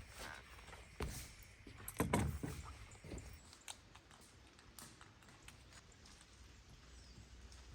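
Light clicks and knocks of small objects being handled, with a louder clatter about two seconds in and scattered faint ticks after.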